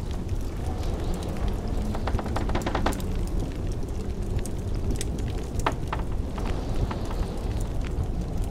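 Wood fire crackling in a fireplace, with a quick cluster of snaps about two to three seconds in, over the steady low rumble of blizzard wind.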